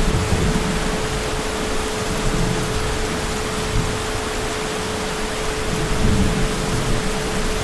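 Steady heavy rain hissing, with a low rumble of distant thunder underneath that swells again about six seconds in. A thin steady tone runs through it.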